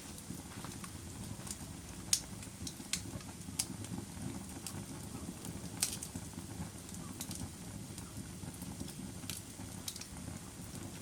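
Wood fire burning in a fireplace: a steady low rumble with irregular sharp crackles and pops, the loudest about two seconds in and again near six seconds.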